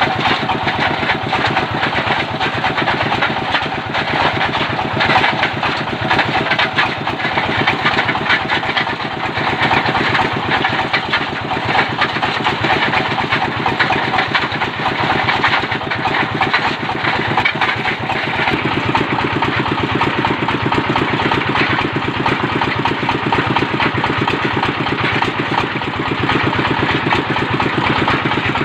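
Diesel engine of a well-drilling rig running steadily at a constant speed.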